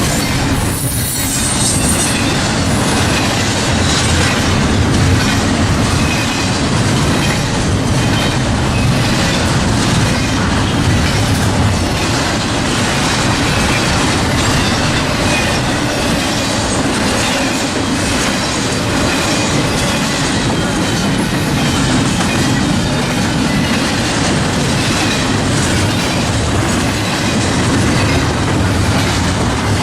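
Norfolk Southern train's railcars rolling past steadily, a continuous loud rumble of wheels on rail with faint high wheel squeal at times.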